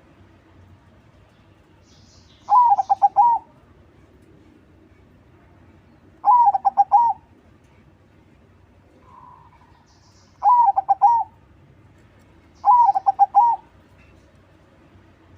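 Crossbred zebra dove (perkutut crossing) cooing: four short rhythmic phrases of quick notes, each under a second, repeated every two to four seconds.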